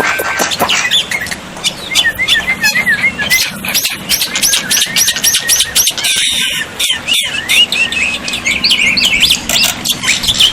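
Black-winged myna (jalak putih) calling: a fast run of chattering clicks mixed with short squeaky whistled notes that rise and fall.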